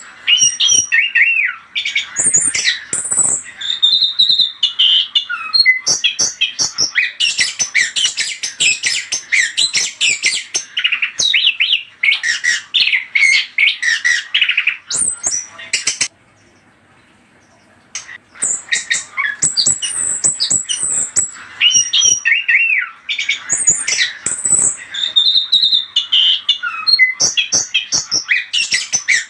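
Chestnut-capped thrush (anis kembang) singing a rapid, varied song of chirps, trills and squawky notes. It breaks off for about two seconds near the middle, then the same song sequence starts over.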